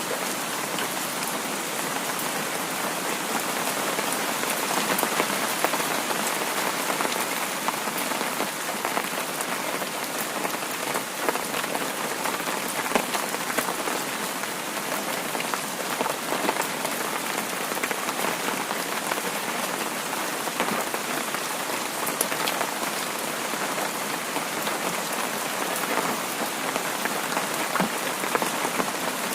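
Heavy rain falling steadily: a dense, even hiss with many small, sharp drop ticks scattered through it.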